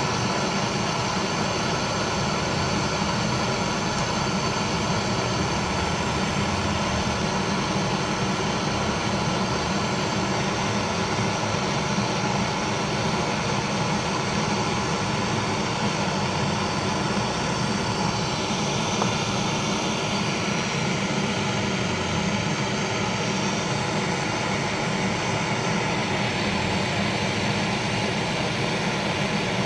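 A motor running with a steady drone and hiss, from the equipment working on a double-door refrigerator during refrigerant gas charging.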